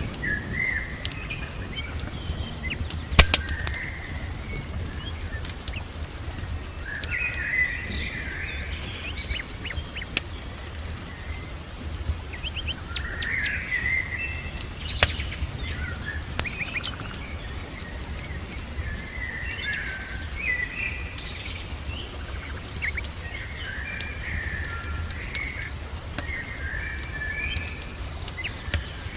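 Birds chirping and singing in repeated short phrases over a steady low rumble, with scattered sharp crackles and pops of a wood fire burning in a fireplace.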